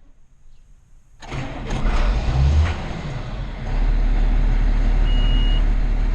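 Farm tractor engine starting up and settling into a steady loud run, with a short high beep about five seconds in.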